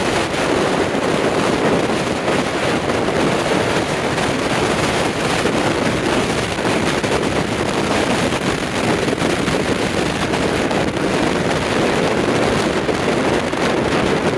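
Strong, gusty storm wind buffeting the microphone over the steady, loud wash of storm waves breaking on the Lake Michigan shore.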